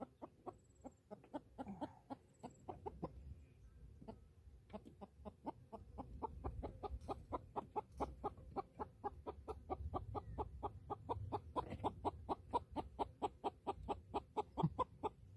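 A hen clucking over and over, irregularly at first, then in a steady rapid run of about four clucks a second.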